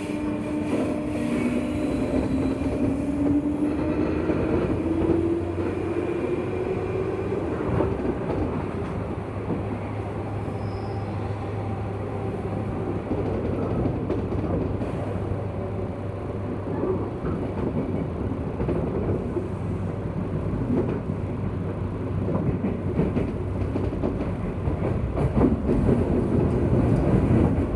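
Interior sound of a JR West 201 series motor car under way: the motor whine rises in pitch over the first several seconds as the train accelerates, then gives way to a steady wheel-and-rail rumble with scattered clicks.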